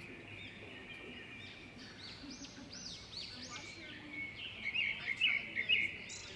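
Small birds chirping, many short high calls overlapping, with a burst of louder chirps about five seconds in.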